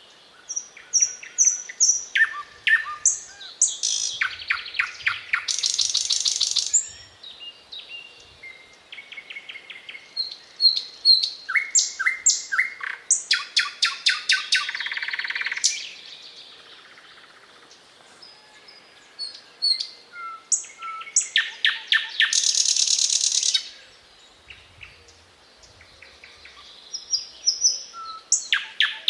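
Thrush nightingale (eastern nightingale) singing: phrases of repeated whistled notes and fast rattling trills, separated by short pauses.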